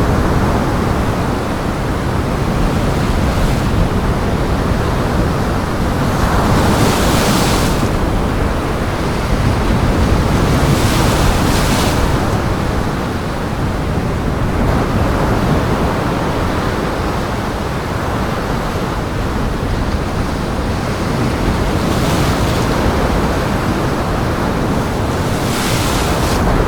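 Heavy Lake Michigan surf churning in gale-force wind, a continuous rush with waves breaking louder every few seconds.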